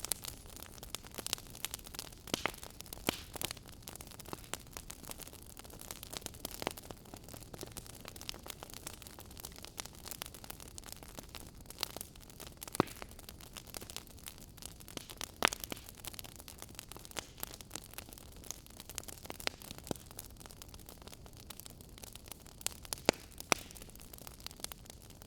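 Wood fire in a fireplace crackling: irregular sharp pops and snaps over a soft steady hiss, with a few louder pops scattered through.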